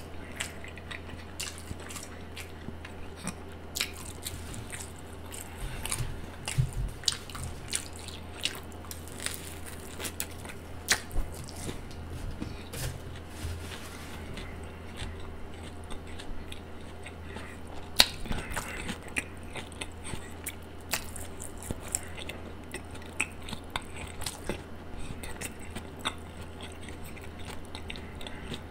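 Close-miked chewing of a Subway sub: many short wet mouth clicks and smacks. A steady low hum runs underneath.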